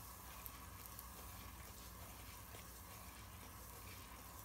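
Faint sizzling of gram flour in hot melted ghee in an iron wok, stirred with a wooden spatula, over a steady low hum.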